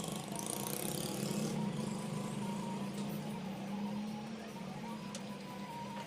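Steady low mechanical hum, with a faint wavering whine above it.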